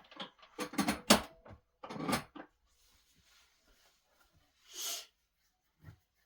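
Household handling noises: a quick run of knocks and clatter in the first couple of seconds, then a faint hiss, a brief scrape and a single low thud near the end.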